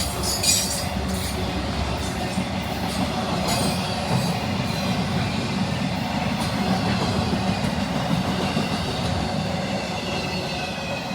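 CSX manifest freight train rolling past close by: steel wheels clatter over the rail joints, with thin wheel squeal coming and going. The sound starts to fade near the end.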